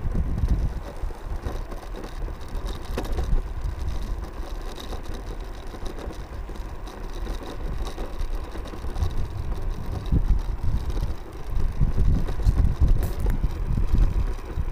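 Wind buffeting the microphone on a moving electric scooter: an uneven low rumble that grows stronger about ten seconds in.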